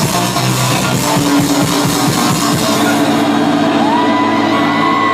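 Loud electronic dance music from a DJ set over a sound system. About three seconds in the highest frequencies drop away and a held high tone comes in.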